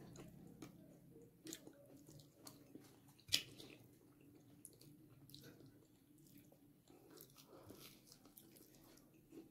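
Faint chewing of food with soft mouth clicks, and one sharper click about three seconds in.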